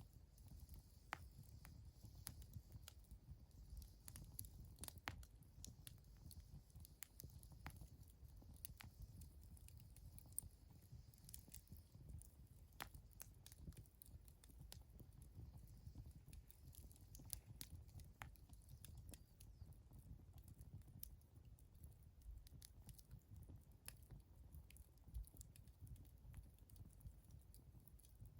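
Faint wood campfire crackling: scattered sharp pops and ticks at irregular intervals over a low steady rumble.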